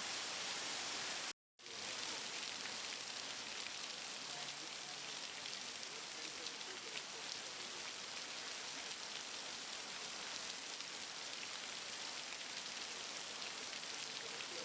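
Heavy rain falling as a steady hiss, cut off for an instant about a second and a half in, then running on. Faint voices can be heard under the rain partway through.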